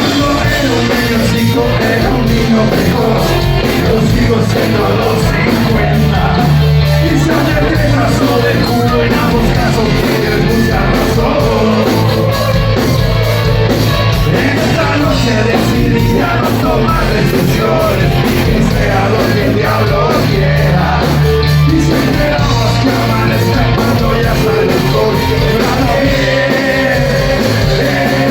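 Rock band playing loud rock music with singing and shouted vocals.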